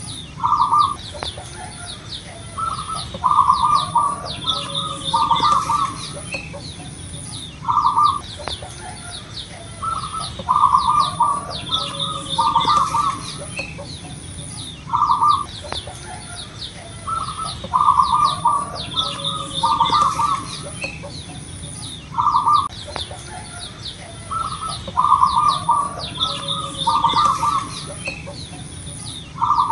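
Zebra dove (perkutut) cooing in a strong, full voice: a single coo followed by a rhythmic run of coos, the phrase repeating about every seven seconds. Fainter higher chirping and an even high-pitched ticking run underneath.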